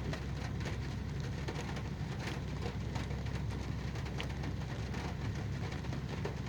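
Steady rain falling, with many separate drops ticking irregularly on a nearby surface.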